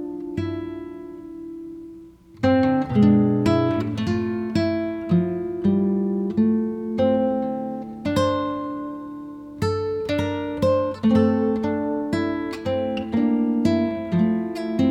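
Background music: acoustic guitar playing plucked notes that ring and fade, with a brief pause about two seconds in before the picking resumes.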